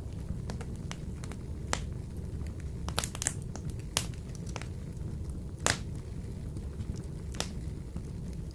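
Wood fire burning in a wood-burning stove: irregular sharp crackles and pops over a low steady rumble, the loudest pop a little over halfway.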